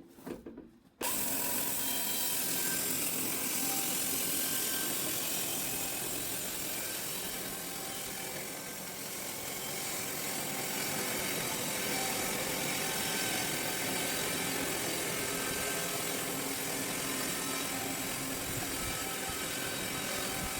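Steady running noise of a motor-driven wood-cutting machine, starting abruptly about a second in.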